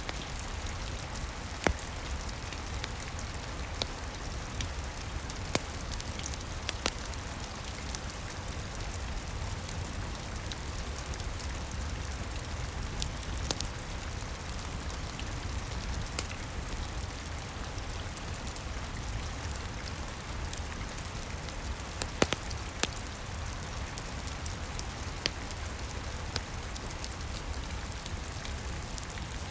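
Steady rain with a low rumble underneath. A crackling fireplace fire gives scattered sharp pops every few seconds.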